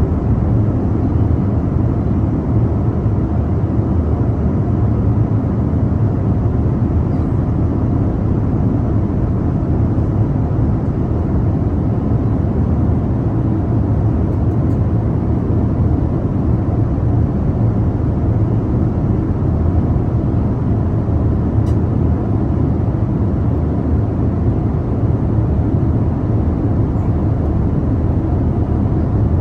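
Steady low rumble of airliner cabin noise in flight: engine and airflow roar heard from a window seat, even and unchanging.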